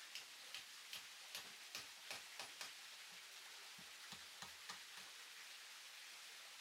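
A run of faint, sharp taps, about two to three a second for the first couple of seconds, then a few duller knocks a little after the middle.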